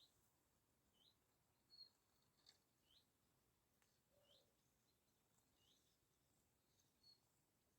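Faint small-bird calls: short rising chirps repeated about once a second, with a few brief higher single notes between them, over an otherwise near-silent calm.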